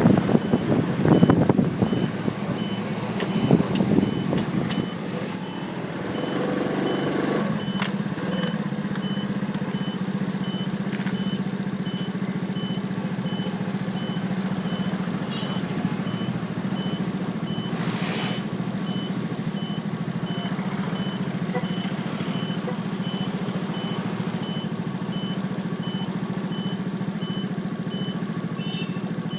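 Motorcycle engine idling steadily after a few seconds of louder riding noise and wind that die away about five seconds in. A short high electronic beep repeats evenly throughout.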